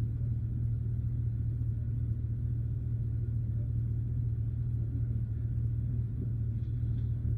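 A steady low rumbling drone that holds one pitch without rising or falling.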